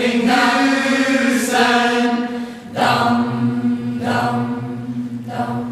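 Choir of young voices singing the closing phrases of a Lucia song in long held chords over a steady low sustained note. The chord changes twice, and the sound eases off toward the end.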